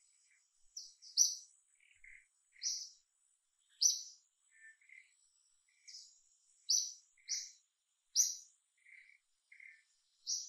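Forest birds chirping: short high calls at irregular intervals of a second or so, with softer, lower notes between them. A faint steady high insect tone runs beneath.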